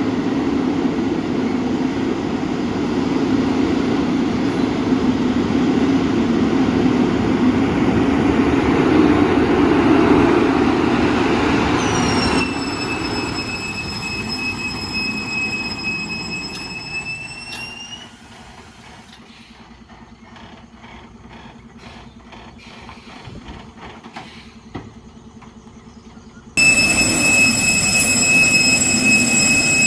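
Heavy lorry running and labouring, with a high-pitched brake squeal setting in about twelve seconds in. The sound then drops to a quieter low hum with scattered clicks, and cuts back abruptly to loud running with the squeal near the end.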